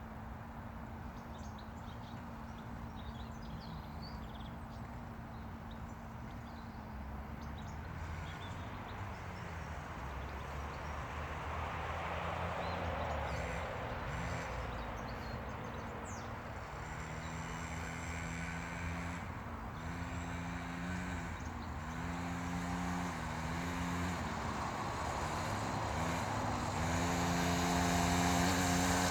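Small motocross bike's engine running, its pitch rising and falling repeatedly as the throttle is opened and eased, and growing louder near the end.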